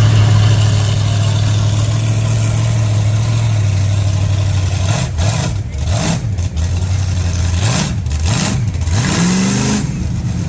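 A vehicle engine running at a steady low speed, then revving up and down several times in the second half, with rushes of noise as it does.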